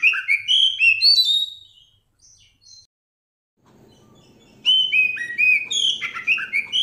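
A songbird's clear, whistled song: a quick phrase of chirping, gliding notes that stops, then plays again about three seconds later. It is not the harsh caw of a crow.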